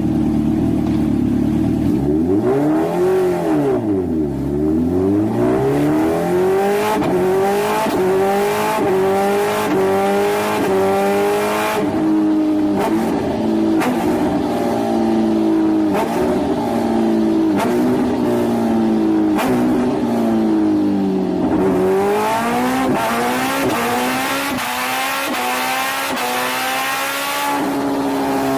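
Motorcycle exhaust note under way, the engine's pitch falling and climbing again a few seconds in, then rising in a run of short repeated steps, with another drop and climb near the end.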